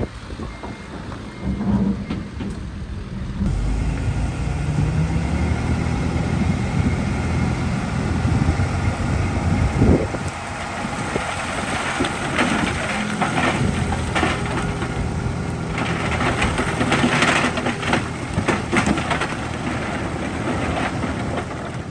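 Diesel engine of heavy earthmoving equipment working under load, with loose rock and dirt clattering and scraping from about halfway in, heaviest a few seconds before the end.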